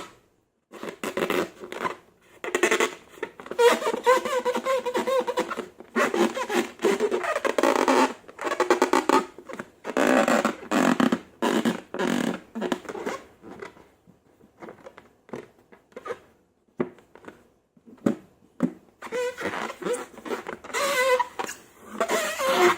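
Slime squelching and crackling in irregular bursts as it is worked and squeezed by hand, with wet, fart-like air pops.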